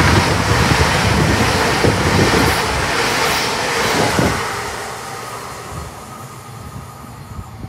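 Hitachi Class 800 bi-mode passenger train passing at speed: a loud rush of wheel-on-rail noise with repeated low thuds from the bogies. It eases off about halfway through as the tail of the train goes by, then fades as the train draws away.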